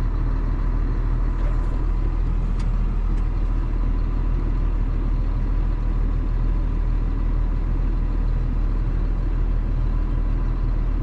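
Big John Deere farm machine's diesel engine running steadily, a constant low drone with a faint steady whine.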